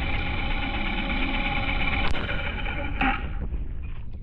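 Honda H'ness CB350's single-cylinder engine running steadily under way, with two sharp clicks about two and three seconds in; the engine sound falls away a little after the second click.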